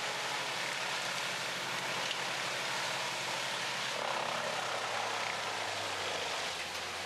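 Large wood chipper running: a steady engine drone under a constant hiss of machinery. The engine note changes about two-thirds of the way through, when a deeper hum comes in.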